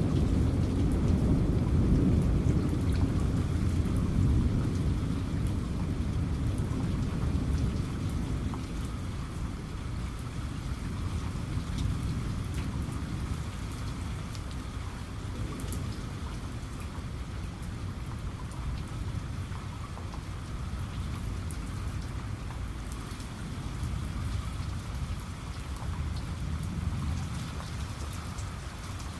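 Steady rain falling, with scattered drops striking a surface, under a low rumble of thunder that is loudest at the start and dies away over the first several seconds.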